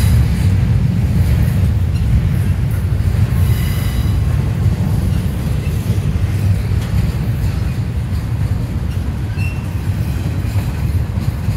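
Norfolk Southern double-stack container freight cars rolling past: a steady, loud low rumble of steel wheels on rail, with a few faint, brief wheel squeals.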